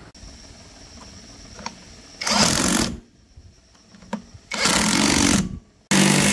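Three short bursts from a power tool working on metal, each lasting under a second, the middle one the longest.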